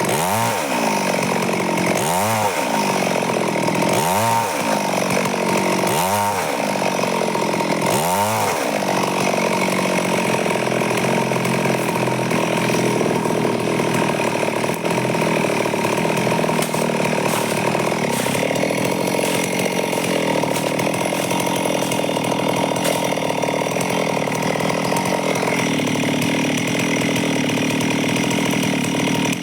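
Stihl chainsaw sawing wood into boards. For the first several seconds its pitch rises and falls about every two seconds, then it runs steadily at high speed.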